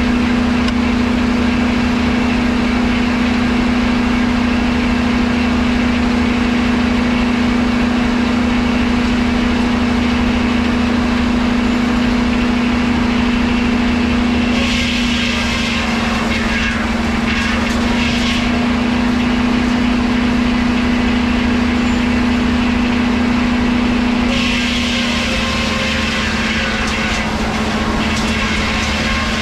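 Sawmill machinery running with a steady hum. Twice, about fifteen and twenty-five seconds in, a harsher hissing noise rises over it for a few seconds, as if wood is being fed through.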